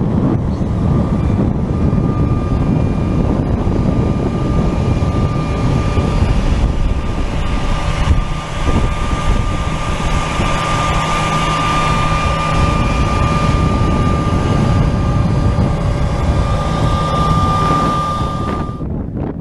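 Airbus A330-200 jet engines running with a steady high whine over a heavy rumble, with wind buffeting the microphone. The sound cuts off abruptly near the end.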